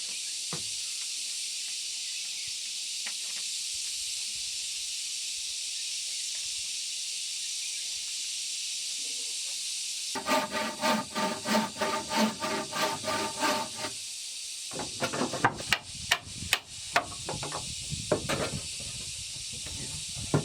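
Hand saw cutting wood in quick rhythmic strokes, about two to three a second, for a few seconds starting about halfway in. Scattered sharp knocks on wood follow, over a steady high hiss.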